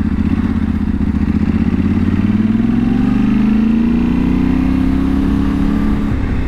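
Yamaha Ténéré 700's 689 cc parallel-twin engine pulling through a tight corner, the revs climbing from about two seconds in and then holding steady.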